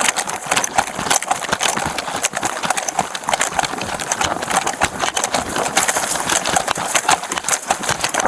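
A person's running footsteps in a fast, irregular stream of sharp knocks, with gear rattling along with each stride.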